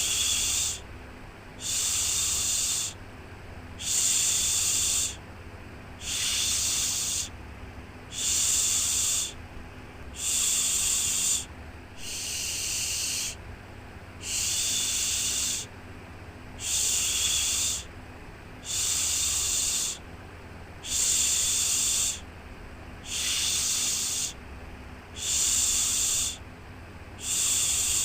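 Shushing 'shhh' sound for soothing a baby, repeated in an even rhythm: each shush lasts about a second and one comes every two seconds, over a steady faint low background noise.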